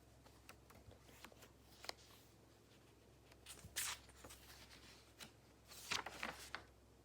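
Paper rustling and scratching on a desk, with two louder rustles about four and six seconds in, over a faint low room hum.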